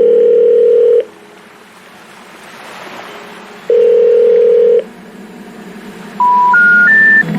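Telephone line tones: two steady one-second beeps, like a ringing tone, about three and a half seconds apart. Near the end come three short rising beeps, the special information tone that comes before a 'number not in service' message. A faint rushing hiss fills the gaps between the beeps.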